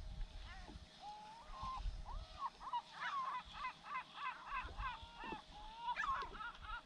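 Gulls calling: scattered cries at first, then a quick, rhythmic run of repeated cries from about three seconds in, with wind rumbling on the microphone.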